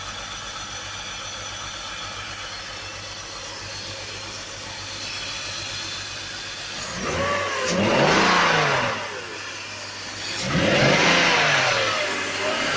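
Car engine idling steadily, then revved twice, about seven and about ten and a half seconds in, each rev rising and falling in pitch. The engine is being tested for a vacuum leak around a taped-up intake hose.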